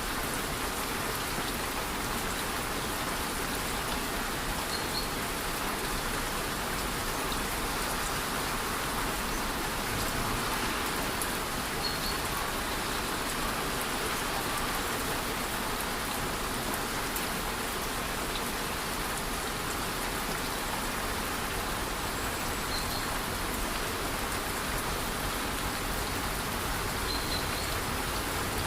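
Steady, even hiss of a waterfall's cascading water mixed with light rain falling, unchanging throughout. A few faint, short high chirps come through now and then.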